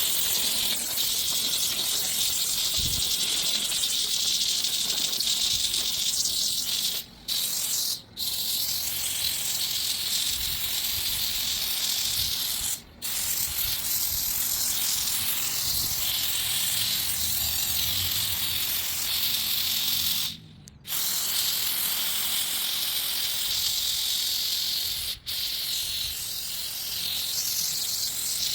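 Handheld steam cleaner jetting steam onto a grimy table to loosen the dirt, a steady loud hiss that cuts out briefly about five times.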